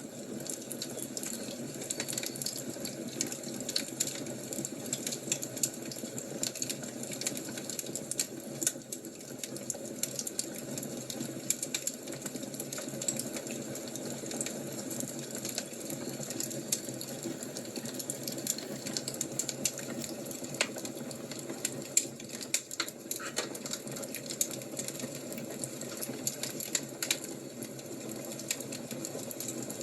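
Fire crackling, with irregular snaps and pops over a steady background hiss.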